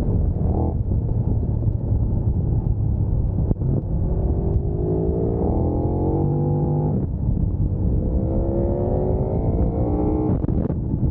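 Motorcycle engine accelerating hard, its pitch rising through a gear, dropping at a shift about seven seconds in, rising again, then cutting off as the throttle closes near the end, under heavy wind noise.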